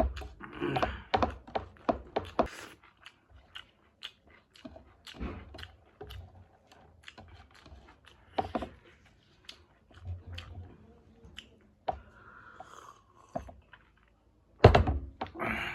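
A person chewing and biting food close to the microphone, with irregular clicks and smacks in bunches; the loudest bunch comes near the end.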